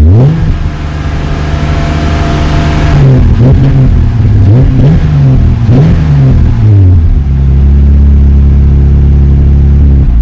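Jeep 3.6-litre V6 exhaust through a straight-through Magnaflow muffler with the stock resonators kept, revved in neutral: it rises quickly and holds high for about three seconds, is blipped up and down three times, then settles to a steady idle. The owner calls the sound extremely quiet.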